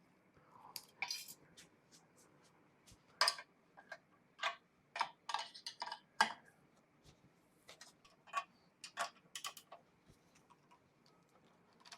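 Irregular light metallic clicks and clinks, some with a short ring: steel tools and clamping hardware being handled on the machine, loudest about three to six seconds in.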